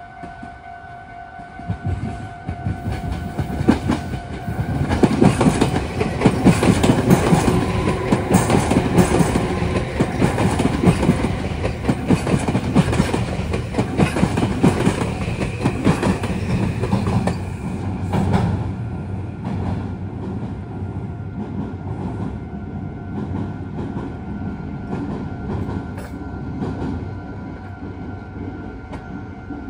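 A level-crossing warning bell rings steadily. Then a Meitetsu 3500 series + 9100 series electric train passes close by, its wheels clacking rapidly over the rail joints for about sixteen seconds. The train noise drops away suddenly, leaving a quieter rumble with the crossing bell ringing on faintly.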